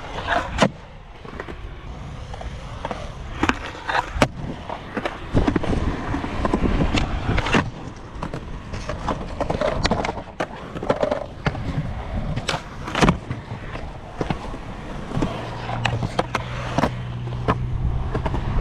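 Skateboard rolling, with repeated sharp clacks of the board popping and landing. A steady low hum comes in near the end.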